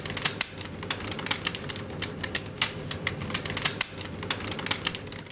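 Crackling from a balloon frozen in liquid nitrogen: quick, irregular sharp clicks, several a second, over a low steady hum. The crackling cuts off suddenly at the end.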